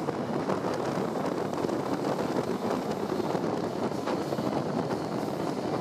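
Wind buffeting the microphone out of a moving train's window, over the steady running noise of the train on the track.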